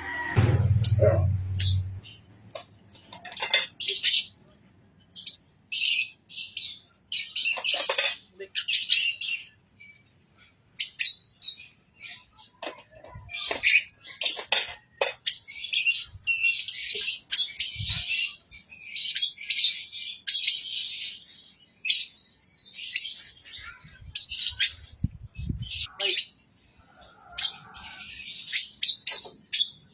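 African lovebird chirping, with many short, shrill calls in quick bursts separated by brief pauses. A low rumble sounds in the first couple of seconds.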